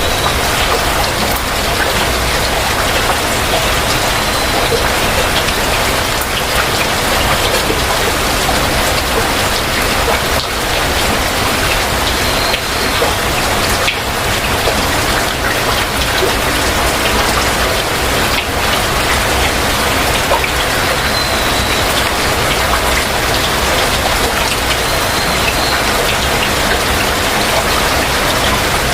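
Heavy rain falling steadily, a dense even patter with no break. A few faint short high calls sound over it now and then, a bird.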